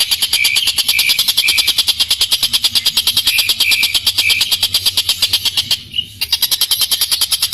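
Tengkek buto giving a long, harsh, rapid rattling call, about ten pulses a second, which breaks off briefly about six seconds in.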